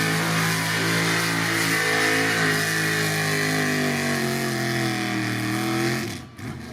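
Gasoline engine of a pro street pulling truck running hard at high revs under load, holding a steady pitch with slight sags. It cuts off abruptly about six seconds in.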